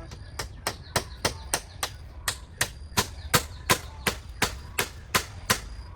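A hand tool striking over and over: about sixteen sharp, evenly paced chopping blows, roughly three a second.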